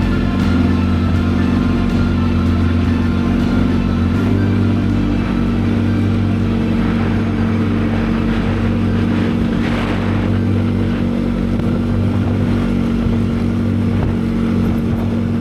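KTM 890 Adventure's parallel-twin engine running at a steady speed while riding, its low note shifting slightly about four seconds in.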